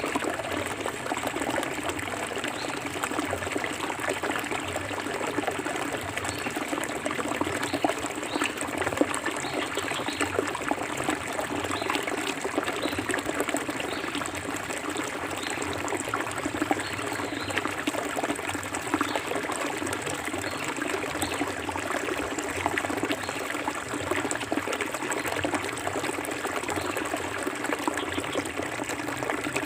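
Clear forest river flowing and trickling over stones, a steady, even babble of water with small splashes.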